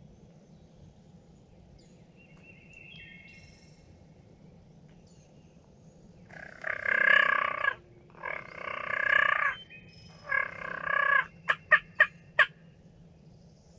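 Turkey gobbling three times in quick succession, each a loud rattling call about a second long, followed by four short sharp notes.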